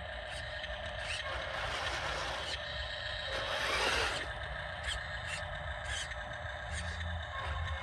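Small electric motors and gearboxes of remote-control construction toys running with a steady whir, with a few faint clicks and a swell in the middle.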